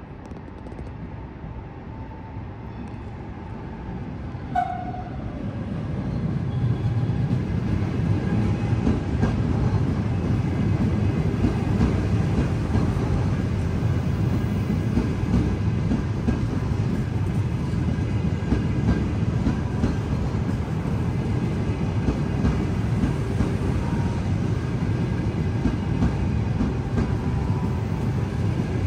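ETR 485 Frecciargento electric multiple unit rolling into the station, its rumble growing as it approaches and then running steadily as the coaches pass close by. A short high tone sounds once, about four and a half seconds in.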